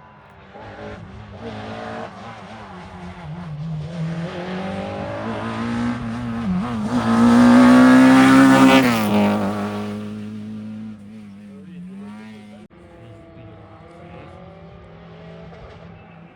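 A historic rally car's engine at full throttle, approaching and climbing in pitch through the revs, passing close about eight seconds in with a sudden drop in pitch. It then fades as it revs away up the stage.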